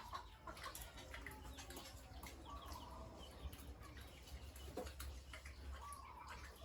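Chickens clucking faintly now and then, over a steady low hum.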